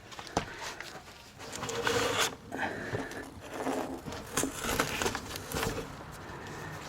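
Irregular clicks, knocks and scraping of tools and parts being handled, busiest in the middle of the stretch.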